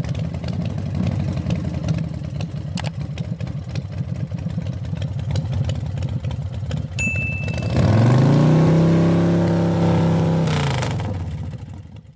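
An engine idling with a steady pulse, then revved up once about eight seconds in, held for a couple of seconds, and let fall back down. A short high beep sounds just before the rev.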